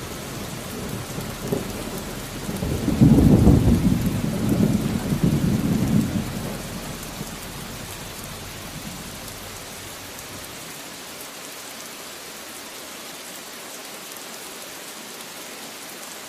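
Steady rain with a rumble of thunder that swells about three seconds in and dies away after a few seconds, leaving only the hiss of the rain.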